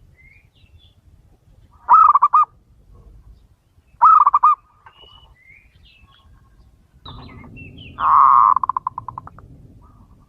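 Male zebra dove (perkutut) cooing: two short trilled coos, then a longer one that breaks into a string of rapid pulses and fades. Faint high chirps from smaller birds come between the coos.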